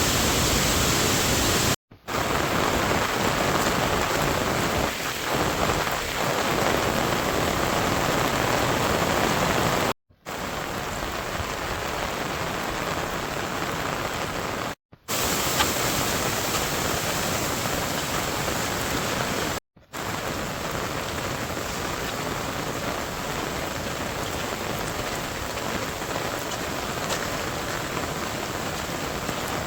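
Steady rain falling. The sound drops out completely for an instant four times.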